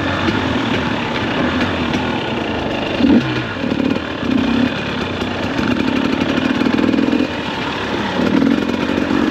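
2021 KTM 250 XC-W two-stroke dirt bike engine running under way, rising and falling with bursts of throttle: short blips about three and four seconds in, a longer pull in the middle, and another blip near the end.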